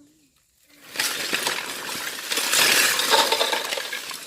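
Loud clattering and rattling, many small sharp knocks of hard objects against each other, starting about a second in and loudest near the three-second mark.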